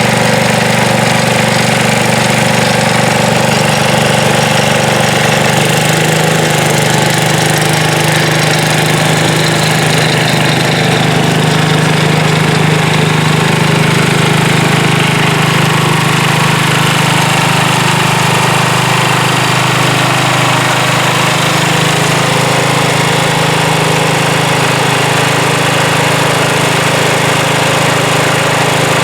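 Sears Suburban garden tractor's single-cylinder engine running steadily at working speed while snow blowing, with a slight change in its note about six seconds in.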